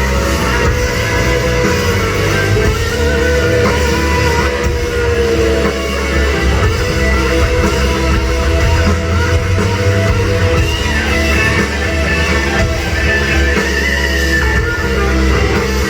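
Rock band playing live, loud and continuous: electric guitar over a heavy, steady bass end.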